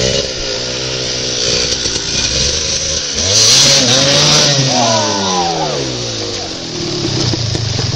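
Dirt bike engine running, then revving up hard about three seconds in with a loud hissing rush at the peak as the bike plunges into a mud hole, before the revs fall away and it settles to a lower running note.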